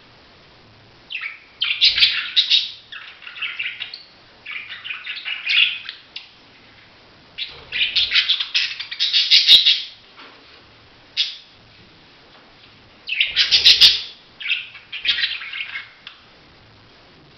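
Budgerigar chattering and warbling in fast chirpy bursts of one to two seconds, with short pauses between.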